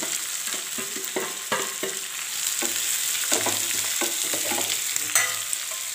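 Onions, green chillies and ginger sizzling in hot coconut oil in a kadai as they are stirred, with a steady frying hiss and many short scrapes and knocks of the utensil against the pan.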